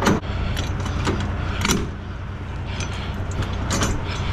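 Semi truck's diesel engine idling with a steady low hum, with several sharp metallic clanks and clicks over it.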